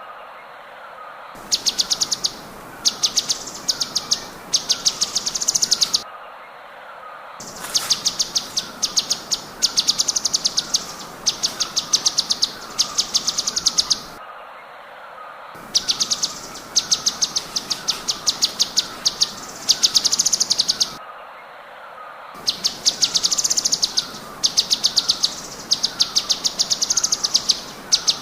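Songbird recording: a bird sings fast, high, stuttering trills in phrases about a second long with short pauses between them, over a steadier, lower repeated chirping.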